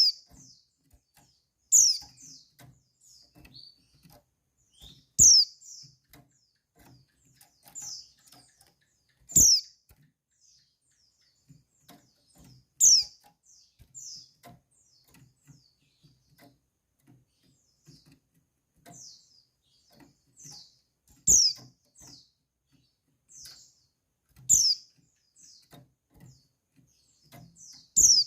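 Female white-eye (pleci) calling: loud, very short high chirps that drop in pitch, repeated at irregular gaps of a few seconds, with softer short notes in between. This is the call bird keepers play to get male white-eyes to answer and sing.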